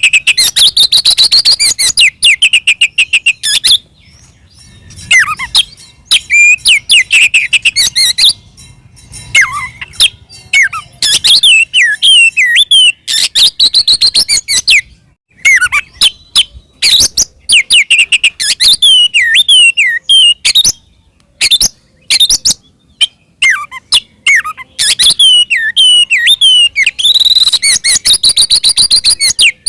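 Oriental magpie-robin (kacer) singing loud, full fighting-mood song: fast runs of repeated notes and whistled phrases, broken by short pauses of a second or so.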